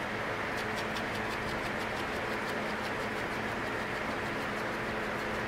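A brush tapped down again and again on wet spray paint on poster board: a quick run of light ticks, several a second, that pauses near the end, over a steady background hum.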